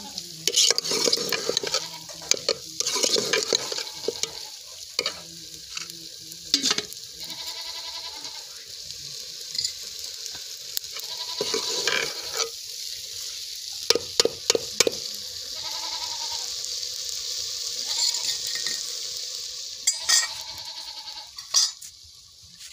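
Potato and egg curry sizzling in ghee in a metal pot, stirred with a steel ladle that scrapes and knocks against the pot in sharp clicks every few seconds.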